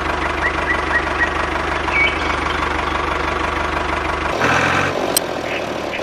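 Engine idling steadily with a low, even knock, typical of a small diesel-style tractor engine. About four seconds in the sound changes abruptly and the low hum drops away.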